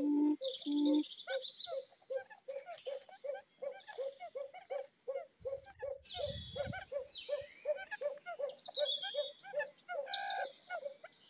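Birds calling: a long, even run of short low notes, about three a second, with higher chirps and whistled phrases over it. A brief low rumble comes a little past the middle.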